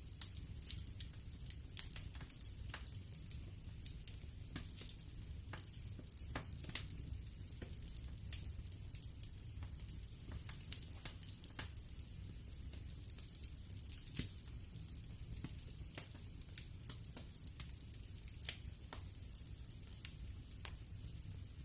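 Wood fire in a fireplace crackling: irregular small snaps and pops over a low steady rumble of the burning, with a few louder pops scattered through.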